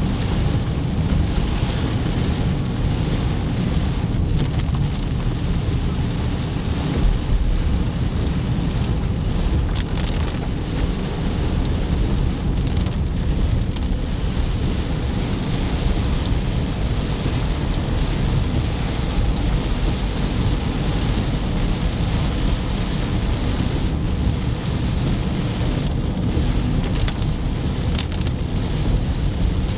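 Scania truck running on the road: a steady low diesel rumble mixed with road noise, unchanging in level.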